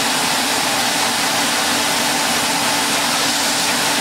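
Electrolux Z345 Automatic cylinder vacuum cleaner running steadily under suction: an even rush of air over a steady motor hum. The suction is drawing in the retractable bristles of its floor tool.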